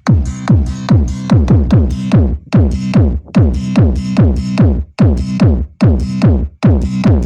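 Loud electronic dance music played through car sound systems: a fast, heavy kick-drum beat with deep bass notes that slide down in pitch on each stroke.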